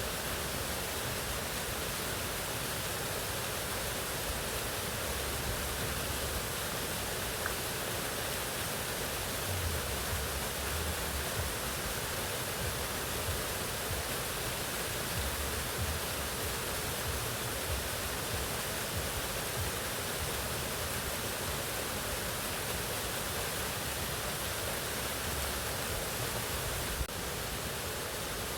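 Mountain waterfall: a steady, even rush of falling water, with a brief click and a slight drop in level near the end.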